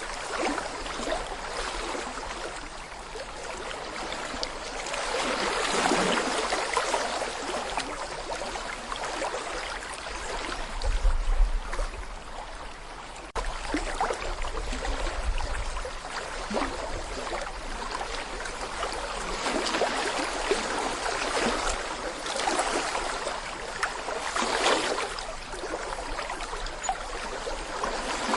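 Small brook babbling over stones, a steady rush of water that swells and eases every few seconds. A brief low rumble comes a little over a third of the way in.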